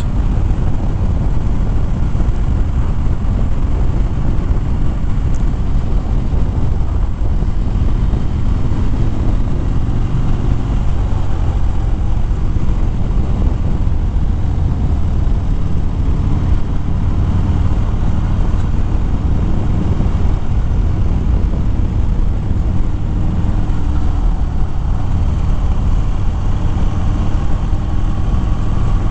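Harley-Davidson Fat Bob's V-twin engine running steadily at riding speed, under a loud, even rush of wind and road noise.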